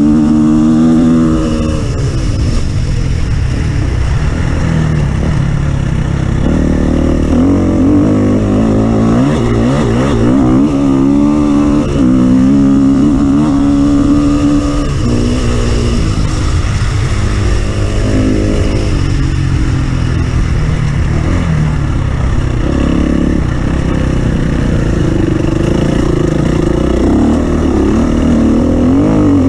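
Off-road vehicle engine running under load, its pitch rising and falling again and again as the throttle is worked, over a constant low rumble.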